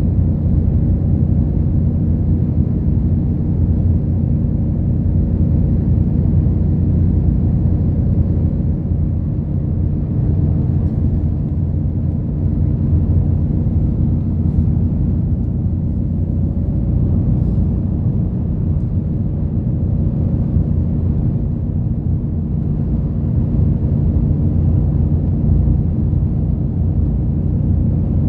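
Route bus engine and running gear heard from inside the passenger cabin: a steady low rumble with an engine hum.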